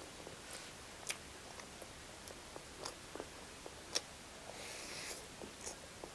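Close-up eating sounds: a mouthful of pork and rice, eaten by hand, being chewed, with scattered wet clicks and smacks. The sharpest click comes about four seconds in as a handful goes into the mouth, followed by a brief hiss.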